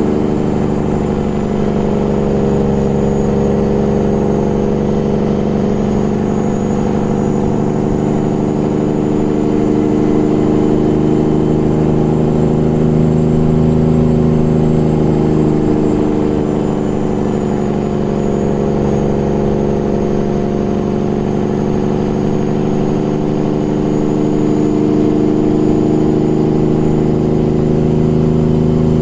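Peterbilt 389 glider's diesel engine held on its engine brake (Jake brake) on a downhill grade, a steady heavy drone whose pitch sags and climbs slowly a few times as engine speed changes.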